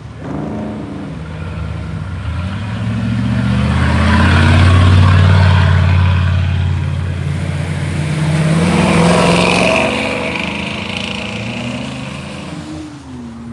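Loud-exhaust supercar engines revving and driving past one after another, the engine note swelling and falling away twice, with a hiss of tyres on a wet road.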